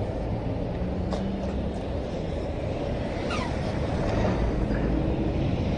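Steady low rumble of a moving vehicle, with a few faint ticks and a short falling whine about three seconds in.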